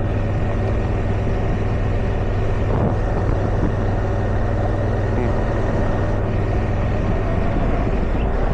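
Motorcycle engine running steadily while riding a gravel road, with wind and road noise.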